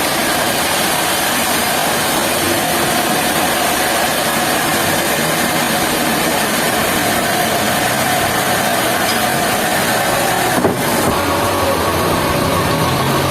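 Sawmill machinery running with a steady mechanical drone. About ten and a half seconds in it breaks off for an instant and carries on with a slightly different pitch.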